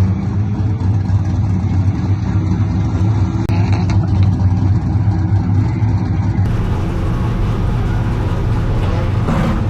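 LS V8 engine of a BMW E82 drift car running steadily with a deep, low rumble; the sound changes character about six and a half seconds in.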